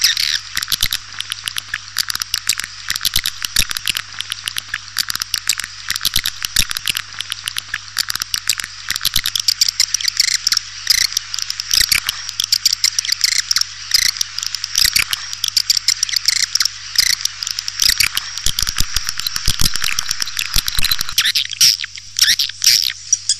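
Recorded swiftlet calls: a dense, continuous chorus of rapid high twittering chirps and clicks, with a steady low hum beneath. This is the kind of call sound played to lure swiftlets into a nesting house.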